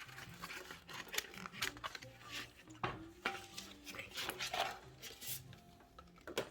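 Packaging being opened by hand: a run of crinkles, scrapes and small clicks as a box and its wrapping are pulled apart, over quiet background music.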